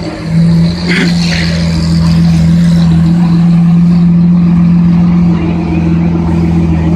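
A vehicle engine running steadily at an unchanging pitch, with a brief voice-like sound about a second in.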